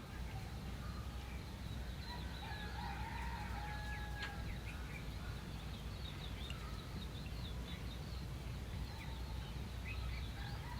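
Faint roosters crowing, with other birds chirping, over a steady low background hum.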